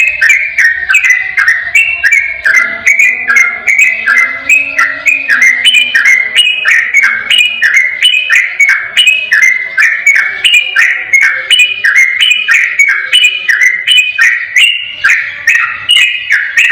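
Sooty-headed bulbul (trucukan) singing a rapid, unbroken 'ropel' song: short bubbling whistled phrases repeated about twice a second.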